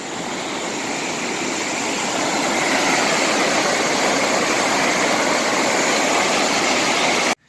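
Steady rush of water pouring through a reservoir dam's overflow spillway, growing louder over the first few seconds, then cut off suddenly near the end.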